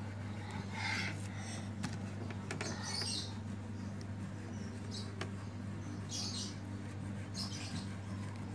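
Scratchy strokes of colouring on paper, short rubs coming every second or two, over a steady low hum.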